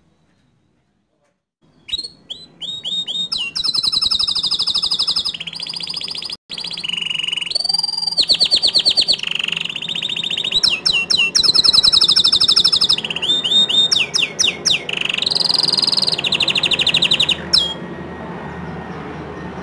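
Domestic canary singing a long, fast song of rapid high trills and rolls, starting after about two seconds of silence and breaking off near the end.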